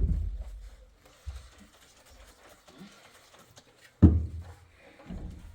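Heavy low thuds in a small room: one fading away at the start and a sharp one about four seconds in, with a few faint knocks between.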